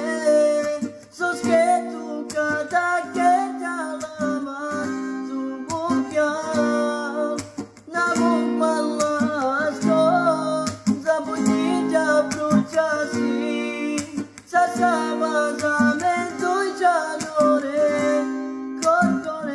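Acoustic guitar strumming chords under a voice singing a wavering, ornamented melody in phrases.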